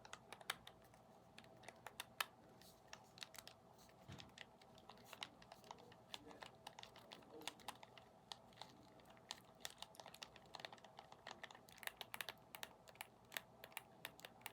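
ASMR tapping: quick, irregular, light taps and clicks on an object, faint, coming thicker near the end.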